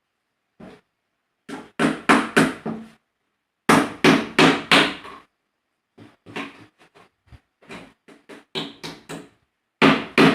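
Hammer blows on plywood: a short run of quick strikes about two seconds in, another around four seconds, then a stretch of lighter, quicker taps, and heavy blows again at the very end.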